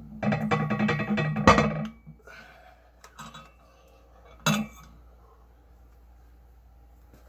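Loaded Ironmind Rolling Thunder's iron weight plates clanking and ringing against the loading pin as the weight is lifted, with the loudest clank about one and a half seconds in, then a few lighter clinks.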